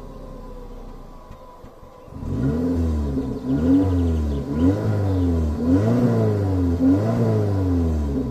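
Suzuki Ignis 1.3 L M13A four-cylinder engine idling quietly, then from about two seconds in revved repeatedly. Its pitch rises and falls in a series of blips about once a second.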